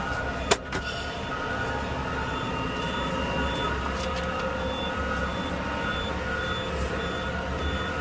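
A truck's reversing alarm beeps at a steady, even pace over the low, steady running of a heavy truck engine. There is one sharp click or knock about half a second in.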